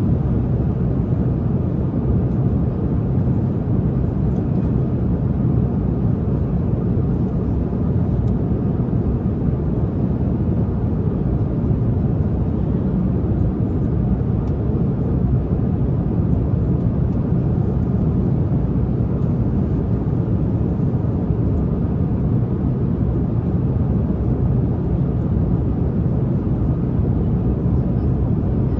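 Steady airliner cabin noise in flight: an even, low rush of engines and airflow that holds constant throughout.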